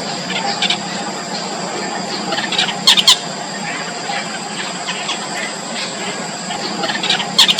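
Yellow bittern chicks squeaking over and over in the nest, begging calls during feeding, with two loud sharp bursts, one about three seconds in and one near the end.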